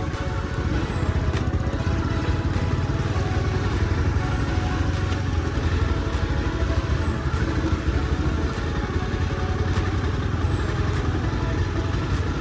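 Motorcycle running steadily on the move, with a continuous low rumble that keeps an even level.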